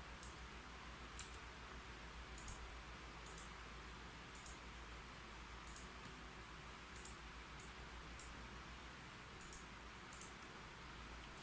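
Single key presses on a computer keyboard, light sharp clicks at irregular intervals about one a second, the loudest about a second in.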